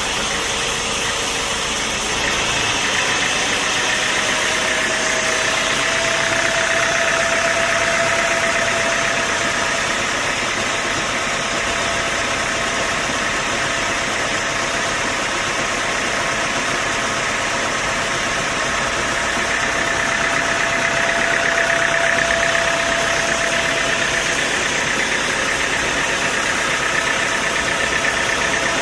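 Sawmill machinery running with a steady mechanical drone and whine. A tone in it swells twice, around the fifth second and again past the twentieth, as the level rises slightly.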